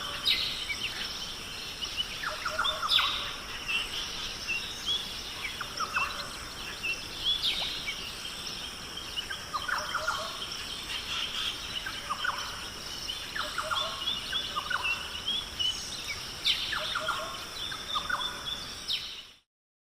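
Birds calling outdoors, with repeated calls every few seconds over a steady high-pitched background hiss; the recording cuts off abruptly near the end.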